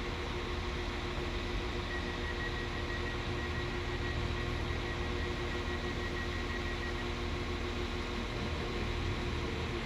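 Diesel train at a station: a steady engine hum and rumble with held whining tones, one high whine sounding for a few seconds in the middle, and no wheel clatter.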